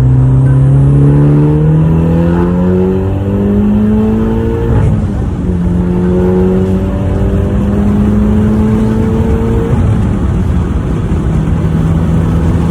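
The turbocharged 2.0-litre four-cylinder of a modified 2008 Mitsubishi Lancer Evolution X is pulling hard through the gears. Its pitch rises steadily, drops at an upshift about five seconds in, rises again, and drops at another shift near the ten-second mark before holding steady.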